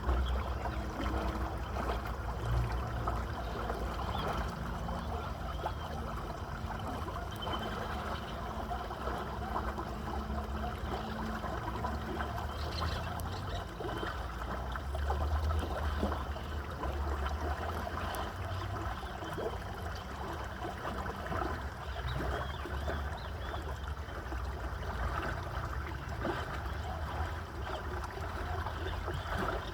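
Small stream of water trickling and flowing steadily, with a constant low rumble underneath.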